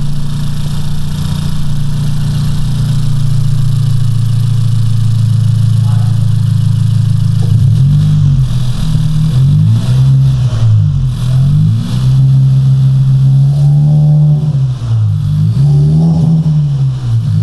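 Civic's freshly built L15B7 1.5-litre turbo four-cylinder running at a steady idle, then revved in a series of short blips from about 8 s on, its pitch rising and falling again and again.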